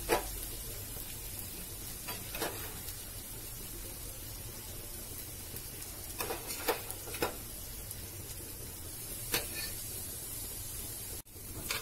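Spiced onion masala sizzling steadily in a pan while spoonfuls of yogurt are dropped in, with a few light taps of a metal spoon against the pan.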